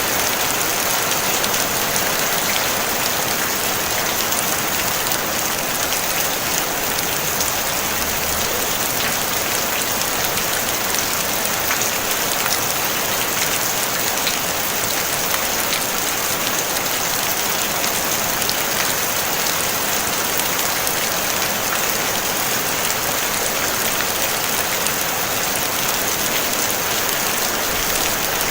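Steady rain on a tin roof: a dense, even hiss of drops with fine individual ticks, and no thunder.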